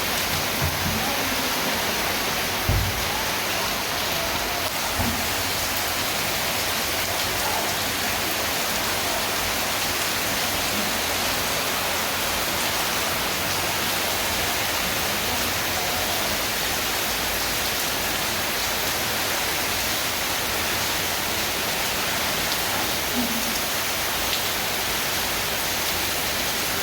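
Heavy rain falling, a steady dense hiss, with a couple of brief low thumps a few seconds in.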